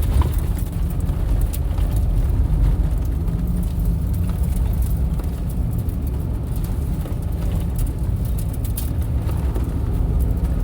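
Off-road vehicle driving over a rough dirt trail: a steady low rumble of engine and tyres, with scattered small clicks and rattles.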